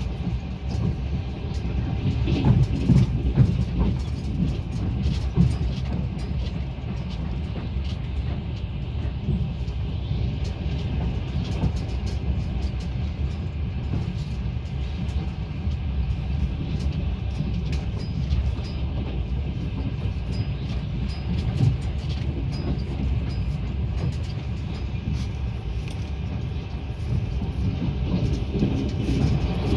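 Passenger train under way, heard from inside the coach: a steady low rumble with small rattles and clicks.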